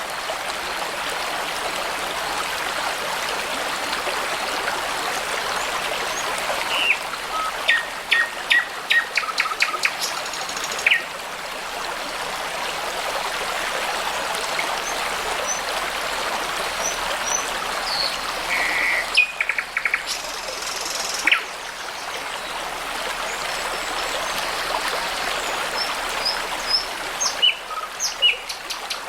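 Brook babbling steadily, with small songbirds calling over it: short whistled notes and several rapid trills, around a third of the way in, about two-thirds through and near the end.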